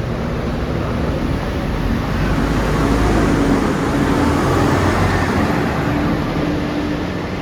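Diesel engine of a Scania KUB city bus running, with road noise. It grows louder to a peak in the middle and eases off toward the end.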